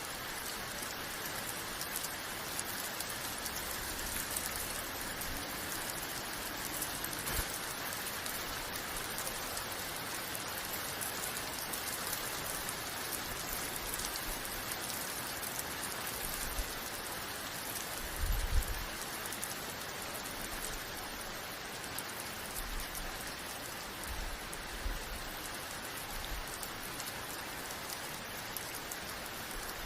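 Steady rain falling, a continuous hiss with fine drop patter, broken by a few brief low thumps, the loudest about eighteen seconds in.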